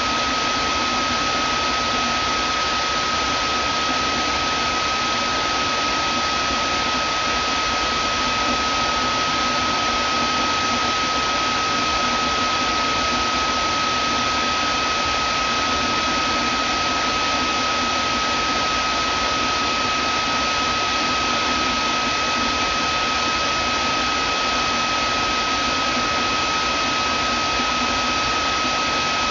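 Vacuum cleaner running steadily: an even rushing noise with a steady whine on top that does not change.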